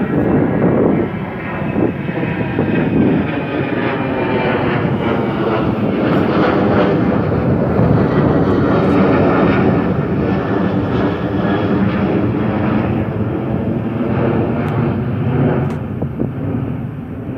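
Jet airliner's engines at takeoff power as it departs, loud and sustained, easing off near the end.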